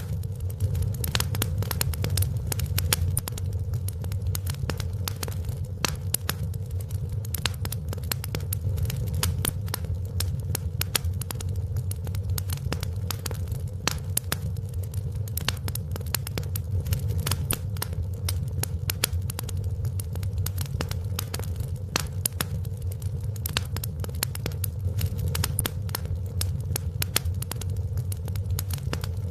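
Wood fire crackling in a fireplace: constant irregular sharp pops and snaps over a steady low rumble.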